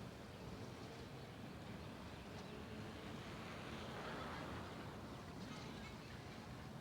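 Steady outdoor background noise, a wind-like rumble that swells briefly about four seconds in, with a few faint short high sounds near the end.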